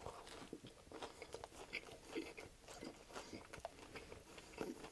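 Faint, close-up chewing of a mouthful of chicken ranch wrap in a flour tortilla: soft, irregular crunches and small mouth clicks.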